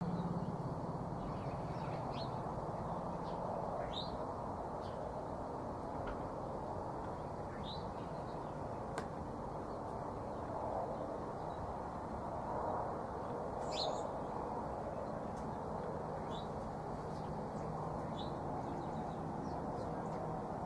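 Several short bird chirps scattered through, the clearest about two-thirds of the way in, over a steady low background rush of outdoor ambience. One sharp click near the middle.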